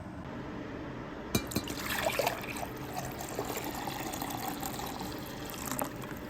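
Water flowing, starting just after a sharp click about a second in and stopping shortly before the end.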